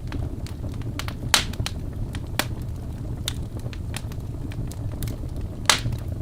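Wood logs burning in a fireplace: a steady low rumble of flame with frequent sharp crackles, and two louder pops, one about a second and a half in and one near the end.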